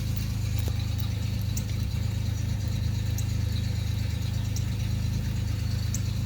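1989 Chevrolet Celebrity's 2.8 V6 idling steadily with its leaking crankcase vent capped off, so it runs smooth instead of misfiring. Faint light ticks recur about every second and a half.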